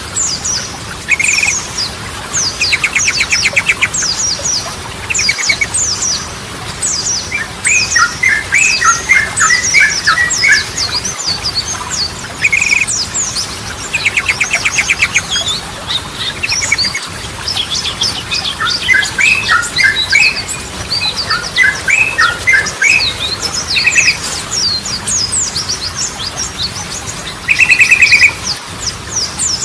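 Yellow-vented bulbul (trucukan) singing: short bubbly chattering phrases recur every few seconds, over a continuous run of quick, high, falling chirps.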